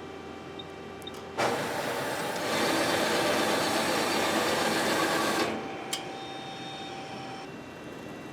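Metal-bending machine in a sheet-metal shop, humming steadily, with a loud rushing noise for about four seconds starting about a second and a half in, then a single sharp click.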